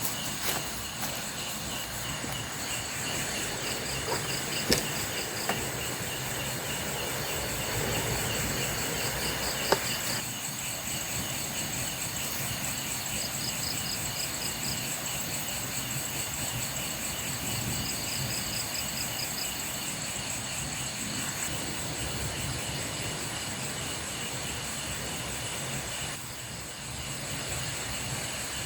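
Chorus of night insects, crickets among them: several steady high-pitched trills overlap, with pulsing chirp runs that come and go. A few sharp clicks sound in the first ten seconds.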